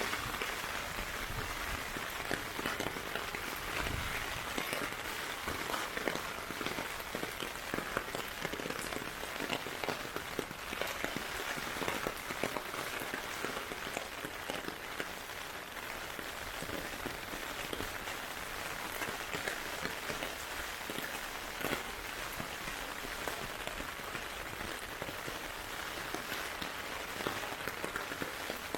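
Heavy typhoon rain falling steadily: a constant hiss with a dense patter of drops striking the ground and surfaces.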